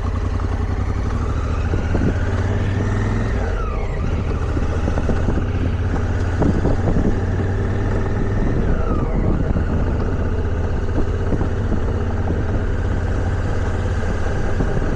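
Motorcycle engine running at road speed, its pitch climbing and then dropping sharply twice, about 4 and 9 seconds in, as it shifts up.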